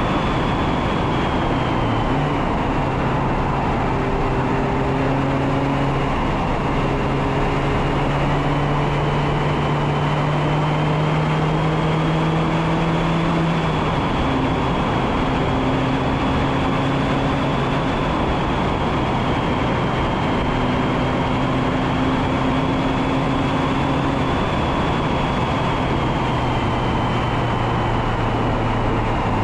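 Mazda MX-5 Miata (ND2) four-cylinder engine pulling under load, heard from a front-bumper microphone through heavy wind and road noise. The engine pitch climbs slowly for several seconds and drops sharply about halfway through, then holds fairly steady.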